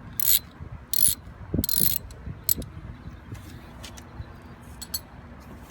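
Socket ratchet clicking as a 9/32 socket loosens an air-intake hose clamp: three short bursts of clicking in the first two seconds, then a few scattered single clicks.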